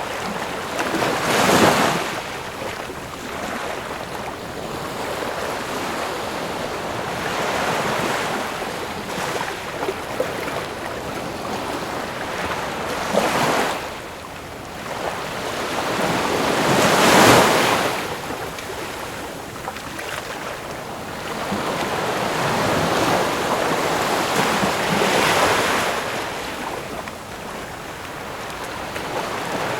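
Ocean waves breaking and washing in, a steady rush of surf with the loudest surges about a second and a half in, near 13 and 17 seconds, and around 25 seconds.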